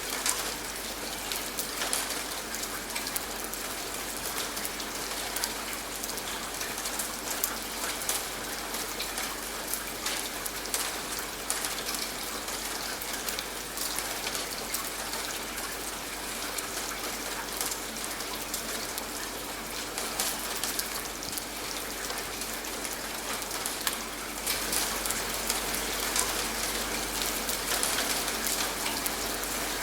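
Steady rain falling, a dense even patter with many individual drops ticking, growing a little louder near the end.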